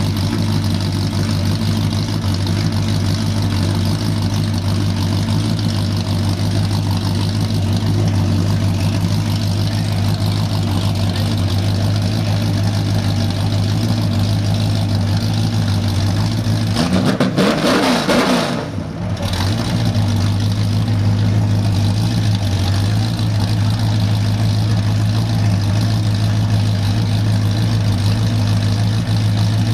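Race car engine running steadily at idle, with a brief rise and fall in pitch about seventeen seconds in.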